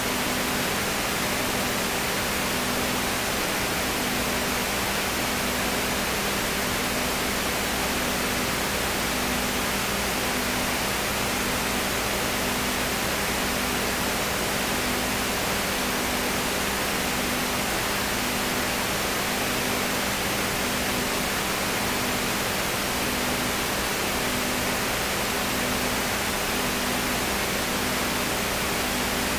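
Steady, even hiss with a low hum underneath, one of its tones pulsing about once a second.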